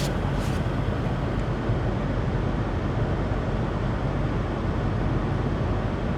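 Steady low hum of a BMW X5 M Competition's twin-turbo V8 idling, heard from inside the cabin, with a faint click about half a second in.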